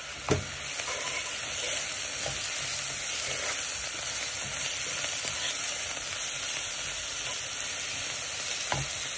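Chopped spring onions sizzling in oil in a nonstick pan while a wooden spoon stirs them, with two short knocks, one just after the start and one near the end.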